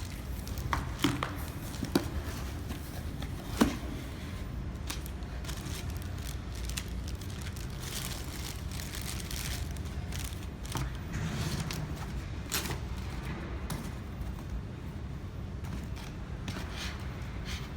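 Scattered clicks and knocks of a microscope and its fittings being handled and swapped on a jewelry laser welding machine, over a steady low hum. A few sharper knocks fall in the first four seconds.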